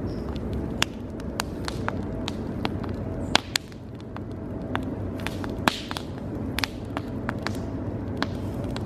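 Wood campfire crackling, with irregular sharp pops and a couple of louder snaps about three and a half and five and a half seconds in, over a steady low rumble.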